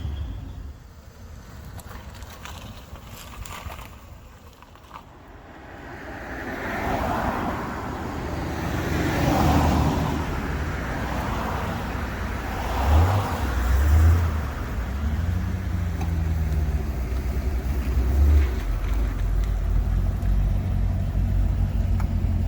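Car engines running as cars drive slowly past. A vehicle approaches and goes by after a few quiet seconds, then a deep, steady engine rumble takes over for the second half.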